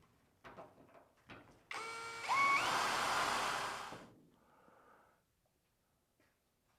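Power drill driving a screw into the sheet-metal roof panel: a motor whine starts about two seconds in, rises in pitch as it speeds up, and stops about two seconds later. A few light clicks come before it.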